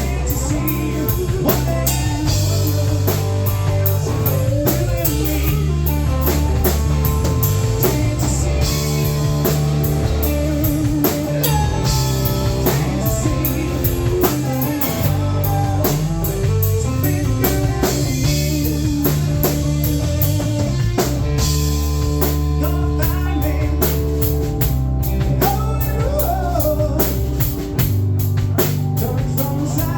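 Live rock band playing an instrumental passage: drum kit keeping a steady beat, guitar, and a strong bass line.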